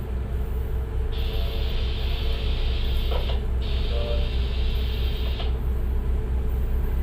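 Tugboat diesel engine running steadily with a deep drone, and a higher hiss that cuts in and out a few times.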